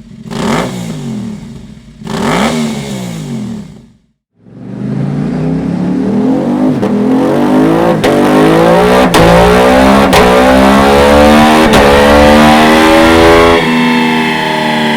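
Aprilia Tuareg 660's parallel-twin engine through a Dominator aftermarket exhaust. It gives two quick throttle blips, then, after a short break, a long full-throttle pull on a dyno with four sharp quickshifter upshifts. Near the end it eases off to a steadier, lower note.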